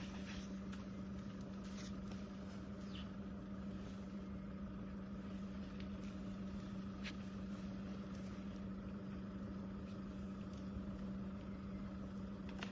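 Steady low hum of an idling vehicle engine, with a few faint, sharp clicks now and then.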